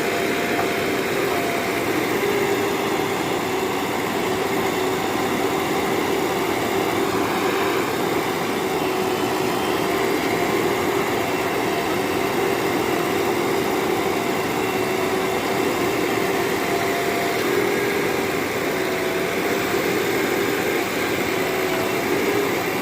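Diesel engine of a heavy machine running steadily at constant speed, with a steady fixed-pitch whine over the rumble.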